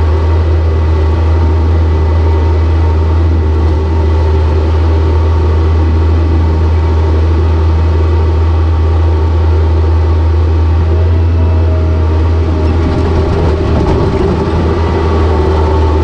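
Large vehicle engine running at a steady speed: a deep, even drone with a thin steady whine above it.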